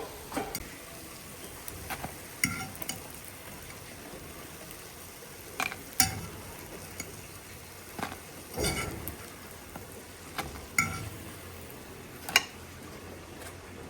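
Food sizzling in a frying pan, with a metal utensil stirring and clinking against the pan about a dozen times at irregular intervals, some clinks briefly ringing.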